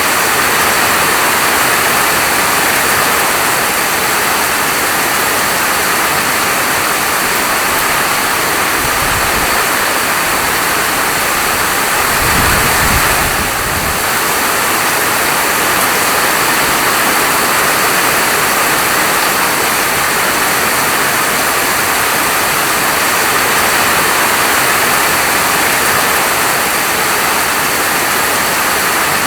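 Steady heavy rainfall, a dense even hiss. A brief deep rumble comes under it about twelve seconds in.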